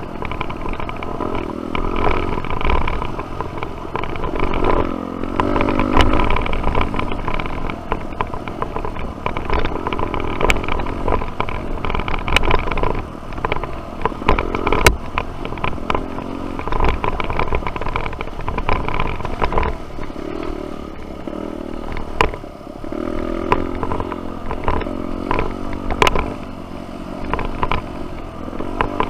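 Single-cylinder dirt bike engine on the trail, revving up and falling back again and again through the gears, with sharp knocks and rattles from the bike over rough ground.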